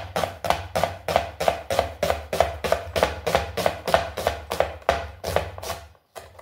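A sharp kitchen knife slicing onions on a chopping board: quick, even knocks about four to five a second that stop near the end.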